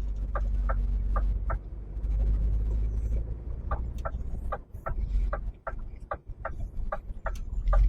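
Lorry's turn indicator ticking at about three ticks a second over the low rumble of the diesel engine in the cab, with a short break about two seconds in.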